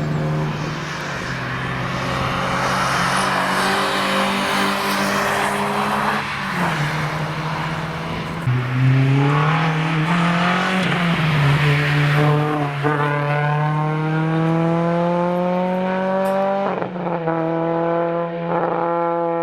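A car engine accelerating hard, its pitch climbing through the revs with two upshifts, the first about two-thirds of the way in and the second near the end.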